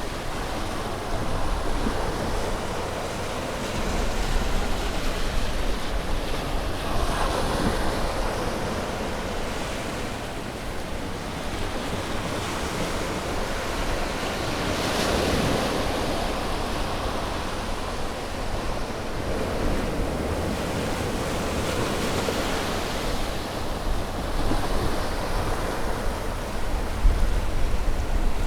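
Sea waves breaking and washing up on a beach, a steady surf that swells and eases every few seconds, with a strong rush about halfway through. A low wind rumble on the microphone runs underneath.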